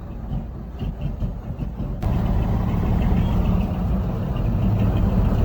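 Heavy diesel engines of earthmoving machinery (dump trucks and a crawler dozer) running with a steady low rumble. An abrupt cut about two seconds in brings a louder stretch of the same engine noise.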